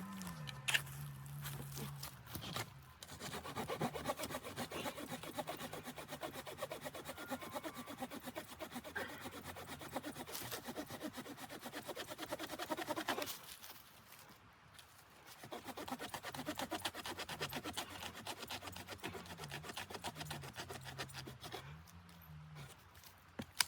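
Hand saw cutting wood in quick, steady strokes, in two bouts with a short pause about halfway through.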